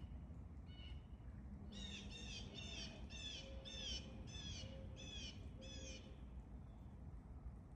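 A bird calling in the forest: one note, then a run of about eight short, falling call notes at about two a second, over a faint steady outdoor background.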